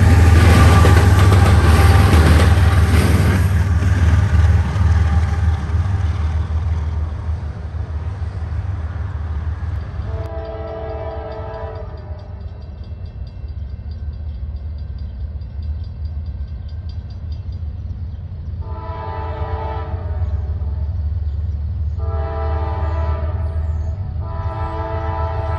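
A freight train passing loudly, its noise fading over the first few seconds under a steady low rumble of diesel locomotives. From about ten seconds in, a multi-chime locomotive horn sounds: one blast, a pause, then three more blasts close together.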